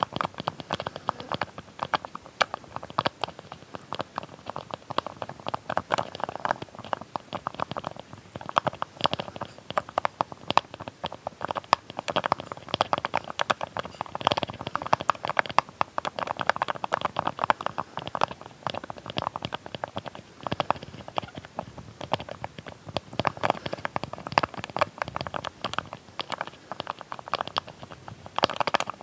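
Close-miked ASMR sounds of a small lid or cap being tapped and handled: a rapid, uneven run of tiny clicks and taps.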